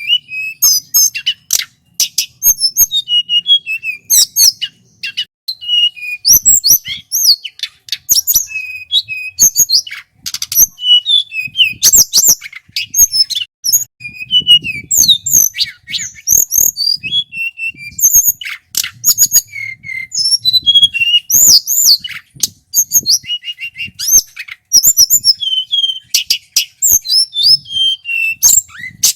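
Male tledekan gunung (mountain blue flycatcher) singing continuously in full voice. It runs rapid, varied phrases of high whistles, sliding notes and quick chattering trills with barely a gap.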